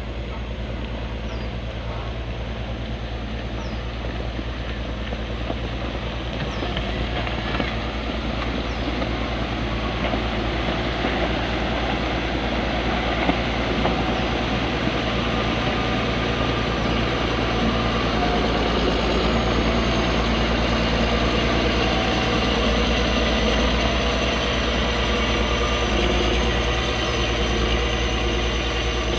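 Diesel engine of heavy road-building machinery running steadily, growing gradually louder over the first half and then holding.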